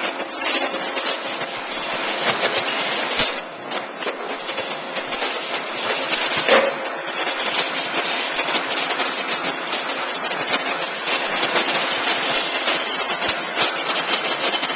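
Steady rushing air noise of a Schmalz Jumbo Flex vacuum tube lifter's suction system, with a few sharp knocks as metal mufflers are gripped and set down.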